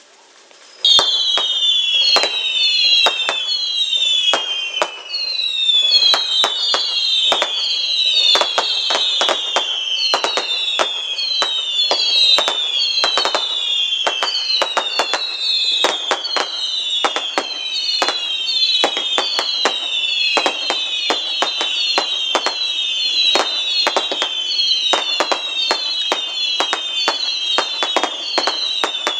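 Fireworks going off in a rapid barrage: many overlapping high whistles, each falling in pitch, mixed with frequent sharp bangs and cracks. The barrage starts suddenly about a second in and keeps up without a break.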